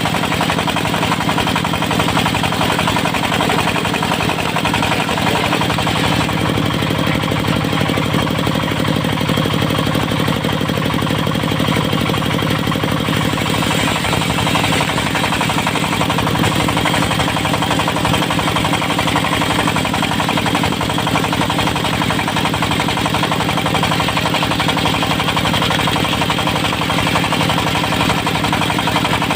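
Diesel engine powering a portable circular-saw mill, running steadily with a rapid, even knock.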